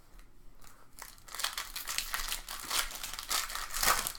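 Crinkling and tearing of a trading card pack wrapper being opened by hand, starting about a second in and growing louder toward the end.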